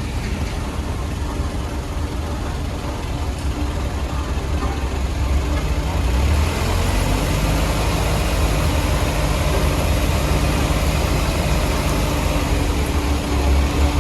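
Diesel engine of heavy road-construction machinery running steadily, getting louder about six seconds in.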